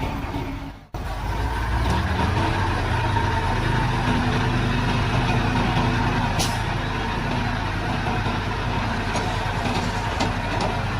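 Heavy diesel engine of earthmoving machinery running steadily under work. It cuts out abruptly for a moment about a second in, and there is a brief sharp hiss-like sound about six and a half seconds in.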